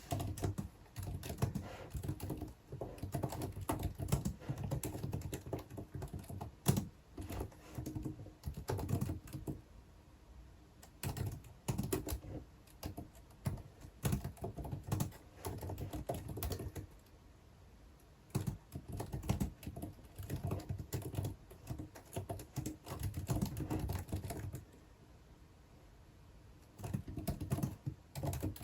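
Typing on a computer keyboard: quick runs of key clicks a few seconds long, broken by short pauses.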